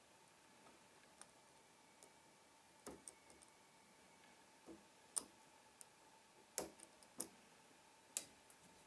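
Lock picking on a Trioving 5632 padlock: a pick and tension tool make sparse, irregular metallic clicks against the pins, about ten in all. The loudest clicks come about five, six and a half and eight seconds in.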